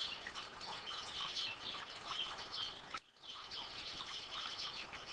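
Faint chirping of small birds in the background, short irregular chirps over a quiet hiss, with a brief dropout about three seconds in.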